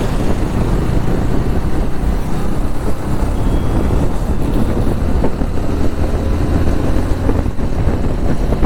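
Motorcycle riding at a steady cruise: a constant low engine rumble mixed with rushing wind and road noise on the microphone.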